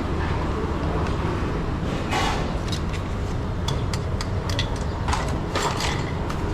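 Busy coffee-shop noodle stall ambience: a steady low rumble with scattered short clinks and clatters.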